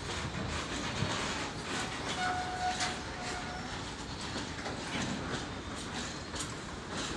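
Covered freight wagons of a long goods train rolling along the adjacent track, the wheels clacking irregularly over rail joints over a steady rumble. A faint steady whine is heard for a second or two near the middle.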